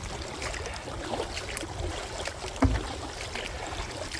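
Paddling a small plastic kayak through choppy water: paddle splashes and water lapping at the hull, with a low wind rumble on the microphone. One sharp knock stands out about two and a half seconds in.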